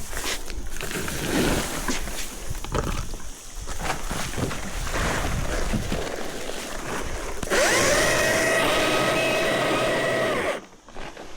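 Irregular rustling and knocking, then, about two-thirds of the way in, a battery chainsaw's electric motor whines up to speed, runs at a steady pitch for about three seconds and cuts off.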